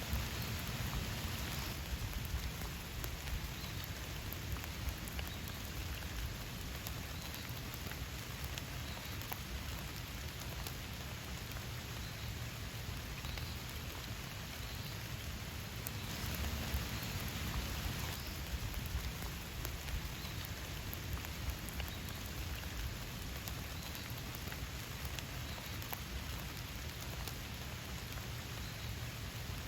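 Steady rain falling, an even hiss with many small pattering drops, swelling briefly a little over halfway through.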